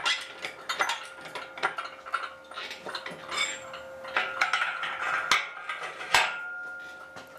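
Metal chain and rigging on a gantry crane clinking and rattling in irregular bursts, with two sharper metal knocks near the end, the second leaving a brief ringing tone.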